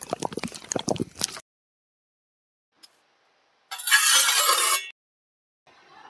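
Miniature bricklaying handling sounds: a tiny trowel scraping and tapping wet mortar on a sandy base for about a second and a half. About four seconds in there is a loud one-second rasping scrape, and a faint scuff near the end.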